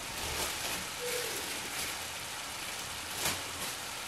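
Grated onion and tomato paste with spices frying in hot oil in a pan: a steady sizzle, with a few short clicks, the loudest about three seconds in.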